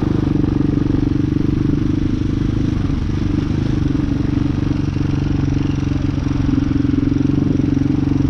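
Hawk 250 dirt bike's single-cylinder four-stroke engine running at a steady, even pitch while the bike cruises along.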